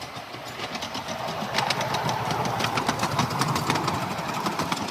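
Garden-scale model train running close by on the track, with rapid clicking from the wheels and running gear and a running noise that grows louder about a second and a half in as it approaches.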